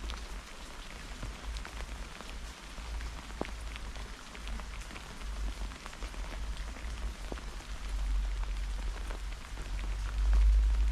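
Heavy rain falling during a thunderstorm, a steady hiss dotted with the ticks of single drops striking close by. A low rumble runs underneath and grows louder near the end.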